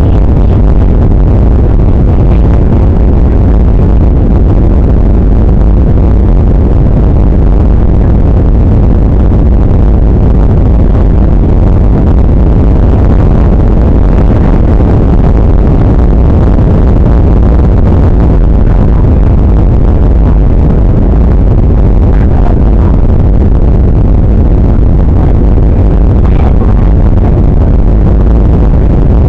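Steady cabin noise of a Boeing 737-800: the rumble of its jet engines and airflow, heaviest in the low end and unchanging throughout.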